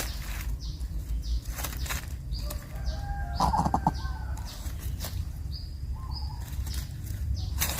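Rustling and wing flutters at a coucal's nest while a chick works on swallowing large prey, with short high chirps throughout. There is a louder flurry with a brief buzzy call about three and a half seconds in.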